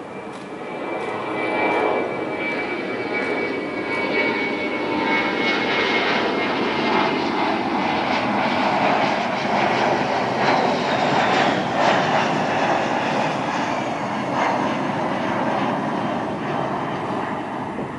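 Twin-engine wide-body jet airliner passing low on landing approach: a loud jet roar that builds about a second in and holds. A high engine whine drifts slightly lower in pitch as the aircraft goes by.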